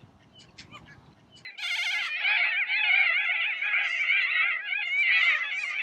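A flock of corellas (white cockatoos) calling together in a dense, wavering chatter of harsh calls, starting about a second and a half in after a few faint clicks.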